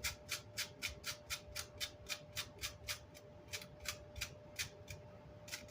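Quick, even scrubbing strokes, about four a second, as chipboard and glue residue are worked off the back of a guitar amp's grille cloth. The strokes pause briefly about three seconds in and thin out near the end.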